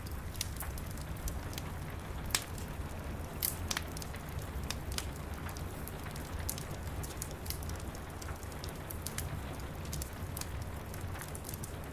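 Steady rain pattering, with a wood fire crackling through it: frequent sharp pops and snaps over a low steady rumble, one louder pop a little over two seconds in.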